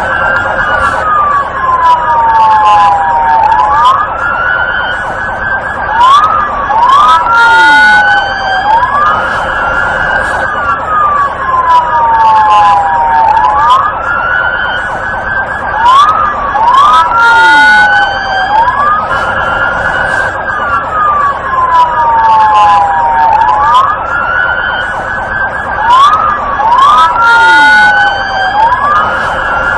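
Police car electronic sirens sounding together: a wail that rises quickly and falls slowly, repeating about every three seconds, over a steady fast-warbling siren tone.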